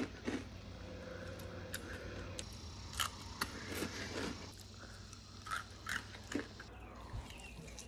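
Crunchy snacks (animal crackers, Cap'n Crunch cereal, granola) being bitten and chewed close to the microphone: a series of irregular, sharp crunches.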